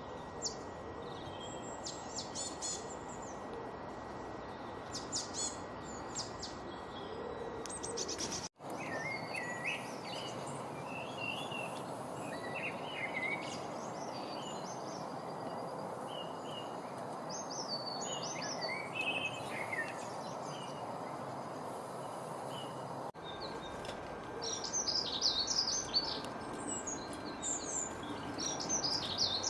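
Several wild birds chirping and singing in short calls and trills over a steady background hiss. The recording breaks off for an instant about a third of the way in, and the background changes again near the end, where the chirping is busiest.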